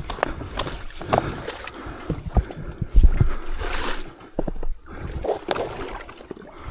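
Splashing and squelching in swampy mud and water, with irregular knocks and thumps, as a dirtbike stuck in a bog is wrestled.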